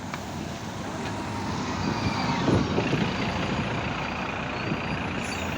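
LiAZ 5292 city bus running, a steady rumble with faint shifting whines, joined about three seconds in by a steady high beeping tone.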